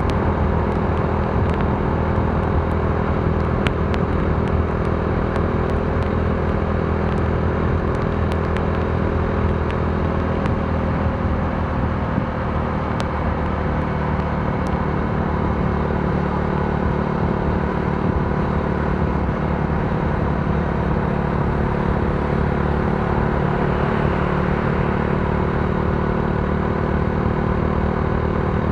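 Modenas Dominar D400's single-cylinder engine running steadily at a cruise, its pitch holding nearly even, with faint scattered ticks in the first half.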